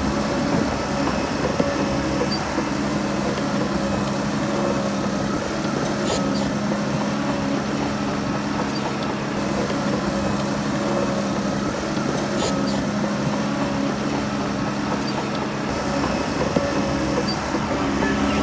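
Heavy diesel engine of earthmoving machinery running steadily at an even pitch, with a few short sharp clicks along the way.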